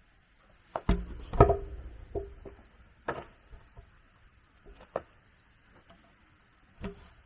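Wood being handled and knocked: about six irregular knocks and clatters, the loudest with a short ring about a second and a half in, over a faint steady high hiss.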